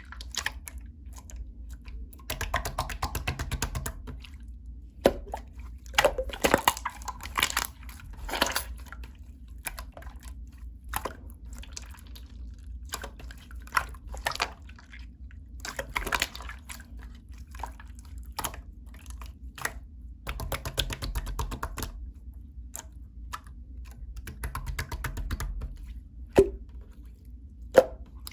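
Clear slime being squished, stretched and pressed by hand: sticky wet clicks and pops, with stretches of rapid crackling clicks. Two sharper pops come near the end.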